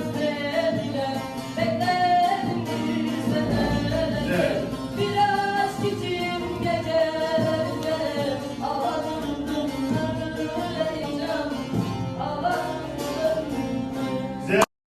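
A voice singing a sustained, wavering melody with music behind it; it cuts off suddenly near the end.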